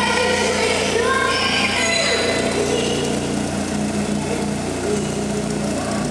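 Renault Clio 16S Cup race car's 1.8-litre 16-valve four-cylinder engine idling steadily, with voices over it in the first half.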